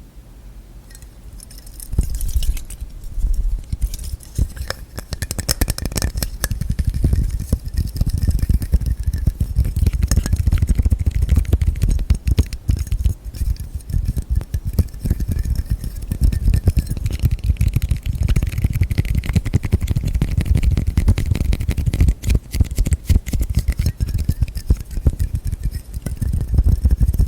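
ASMR tapping and scratching with fingertips and nails on lids: a dense, fast patter of taps and scrapes that starts about two seconds in and keeps going.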